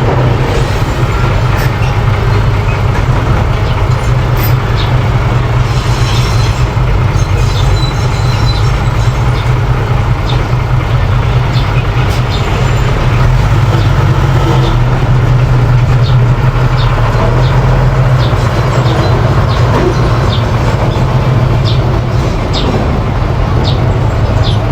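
Mini bulldozer's engine running steadily, with scattered sharp metallic clicks and clanks over the hum.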